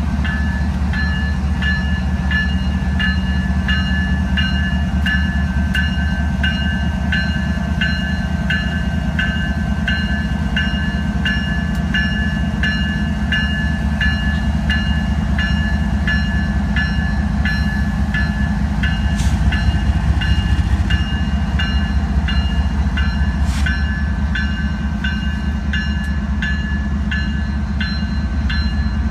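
Diesel freight locomotives rumbling slowly past, with a grade-crossing bell ringing steadily at about two strikes a second. A few short metallic clanks come in around two-thirds of the way through.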